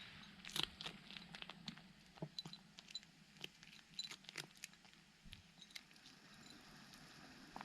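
Faint, irregular small clicks and ticks, a dozen or more scattered over a few seconds, against a quiet room.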